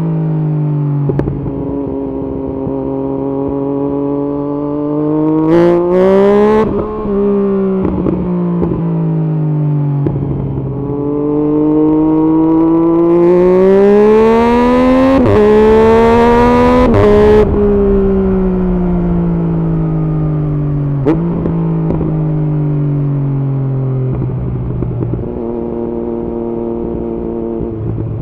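2016 Yamaha MT-09's 847 cc three-cylinder engine through an aftermarket Arrow exhaust on a ride. Its revs fall off on the overrun, climb hard for a few seconds with wind rushing past about halfway through, then drop again and settle to a steady lower note near the end, with a few sharp pops along the way.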